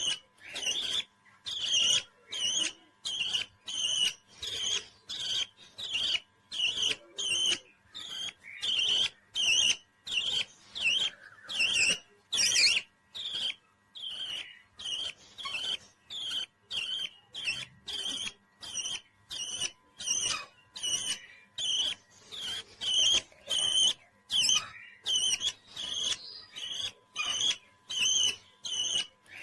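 A pet parrot giving short, high chirping calls over and over in an even rhythm, about two a second.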